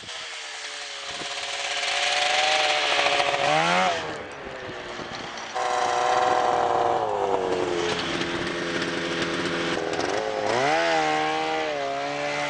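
Vintage snowmobile two-stroke engines running and revving, the pitch rising and falling with the throttle, with an abrupt change about five and a half seconds in.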